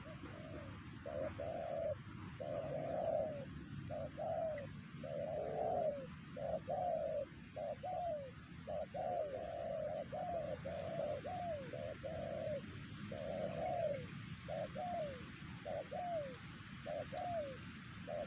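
Spotted doves cooing: a long run of short, low coo notes in quick succession, many ending with a falling slide, over steady background noise.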